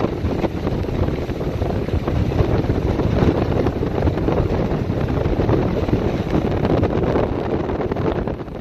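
Strong squall wind buffeting the microphone in a steady, rough rush, with rough seas washing against a seawall bulkhead underneath.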